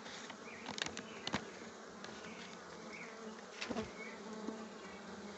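Buzzing of stingless Melipona bees (bugia) around their opened hive box, a steady hum, with a few short clicks from handling the box.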